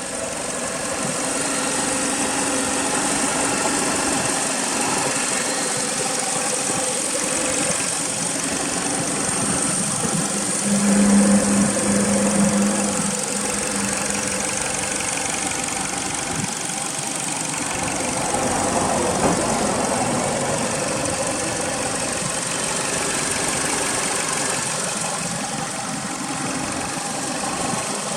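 Toyota Altezza SXE10's 3S-GE four-cylinder engine idling steadily through a Fujitsubo aftermarket muffler, growing briefly louder about eleven seconds in.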